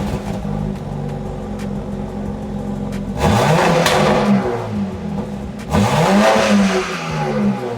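BMW X4 M Competition's twin-turbo inline-six accelerating. The engine runs steadily at first, then from about three seconds in its pitch climbs three times, louder each time it pulls.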